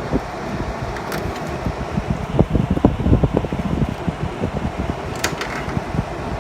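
Haier 5,000 BTU window air conditioner running on fan only, its compressor not yet started: a steady blowing hum with uneven low rumbling surges in the middle. A short click about five seconds in.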